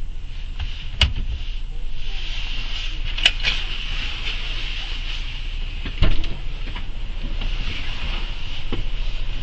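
Steady vehicle running noise, a low rumble with a hiss of road and wind, broken by a few sharp knocks and a heavier thump about six seconds in.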